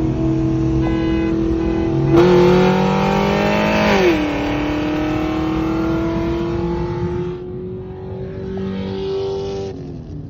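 C6 Corvette's V8, with aftermarket headers and exhaust, in a roll race. It runs steadily, is floored about two seconds in and climbs quickly in pitch, then upshifts with a drop in pitch about four seconds in. It pulls steadily higher in the next gear and lets off near the end.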